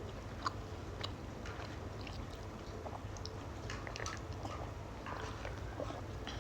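Close-miked chewing: faint, irregular small clicks and mouth sounds of someone eating, over a steady low hum.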